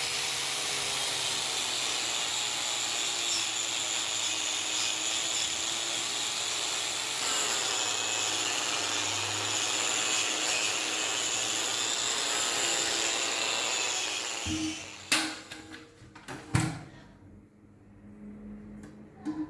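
A power tool runs steadily on metal with a high whine, then stops about fourteen seconds in, followed by a few sharp knocks.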